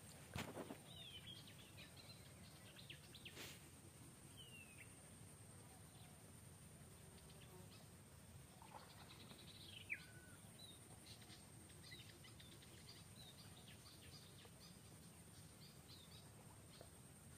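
Faint outdoor ambience: scattered bird chirps and short descending whistles over a low steady background hum and a thin, steady high-pitched tone.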